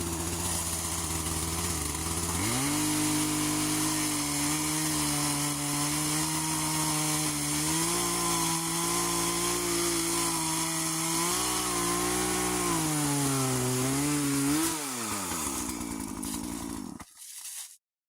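Chainsaw cutting into a dead, rotten cherry tree. It idles briefly, then revs to full throttle about two seconds in and holds there through the cut, its pitch dipping and wavering a little. About fifteen seconds in it drops back to idle, then cuts off shortly before the end.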